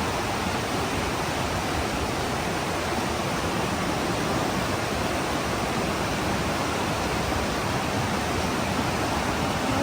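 Mountain stream rushing and cascading over rocks: a steady, even rush of water.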